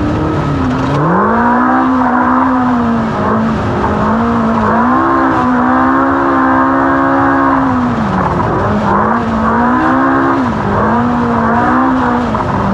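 Off-road race car's engine pulling hard across rough desert, its pitch repeatedly dipping and climbing again as the throttle is lifted and reapplied, with a deep drop about eight seconds in.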